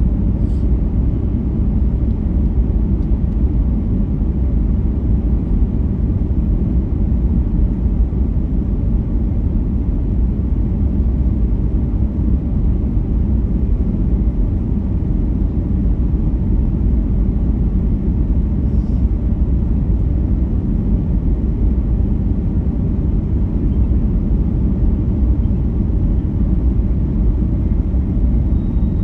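Airliner noise: an even, steady low rumble of engines and rushing air, with no change in pitch or level.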